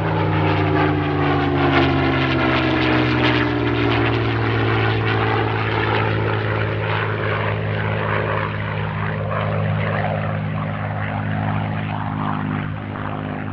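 Spitfire Mk IX's Rolls-Royce Merlin V12 engine running during a flypast. The note drops in pitch as the aircraft passes in the first few seconds, then holds as a steady drone that fades a little near the end.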